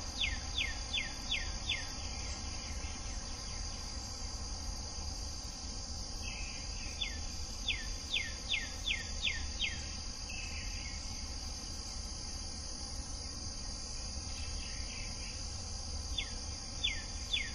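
A bird singing bouts of clear, down-slurred whistled notes, about three a second, six to eight in a row: near the start, again around the middle, and again at the end. Under them runs a steady, high insect trill.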